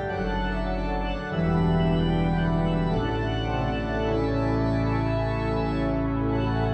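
Organ playing sustained chords over a deep pedal bass, the harmony changing about a second and a half in and again at three seconds.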